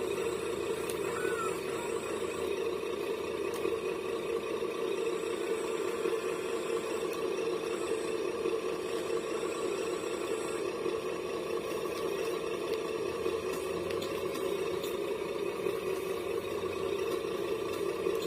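Small electric motor of a radio-controlled scale model running with a steady, even whine.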